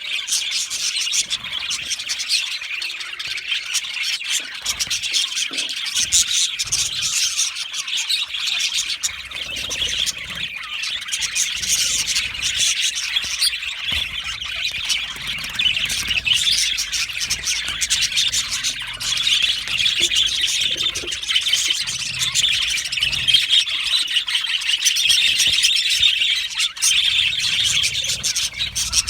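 A flock of budgerigars chirping and chattering together, a constant overlapping mass of high chirps and warbles with occasional sharper squawks.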